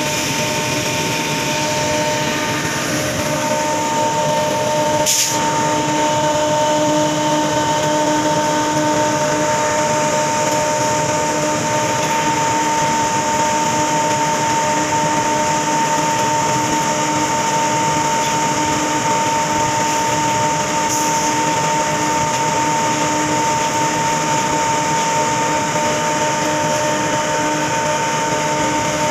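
Freight train in motion, heard from on board: a steady running noise of wheels on rail with a constant whine held at a few fixed pitches. A single sharp click sounds about five seconds in.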